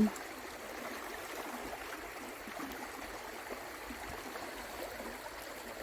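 Stream water flowing steadily, an even rushing wash with no breaks.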